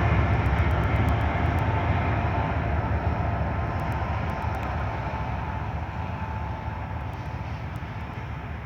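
Diesel freight train running past, the low engine rumble steadily fading as it moves away.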